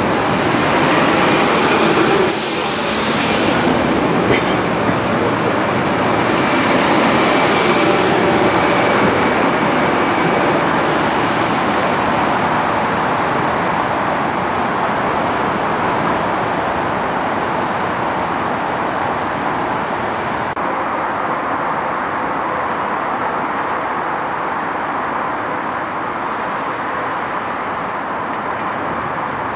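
Metro-North electric commuter train pulling into the station: a steady rolling rumble and rail noise, with a short hiss about two seconds in, easing slightly as it slows.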